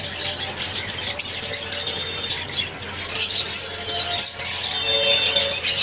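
Many caged birds chattering together in a constant stream of short, high chirps and squawks, with wing flutters mixed in.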